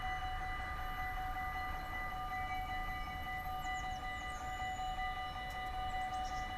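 Level crossing warning bells ringing without a break, a steady metallic ringing of several held tones.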